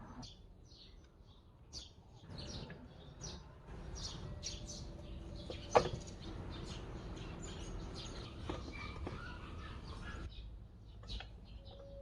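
Small birds chirping repeatedly in short high calls over a low background rumble, with one sharp click or knock about six seconds in.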